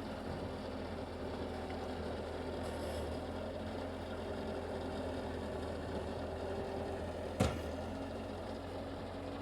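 Diesel engine of heavy snow-clearing equipment running steadily at a low, even speed. A single sharp knock comes about seven seconds in.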